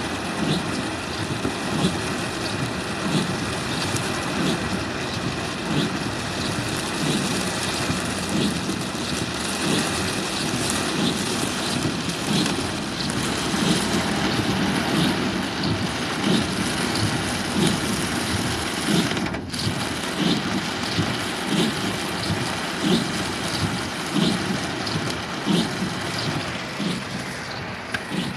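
A vehicle drives through floodwater about half a wheel deep in heavy rain: a steady rush of water splashing against it, with a regular pulse about once a second.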